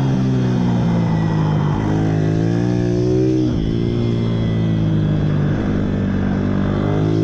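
Pit bike engine revving up and down as it is ridden, its pitch sinking and rising, with a sharp dip about three and a half seconds in and a climb near the end.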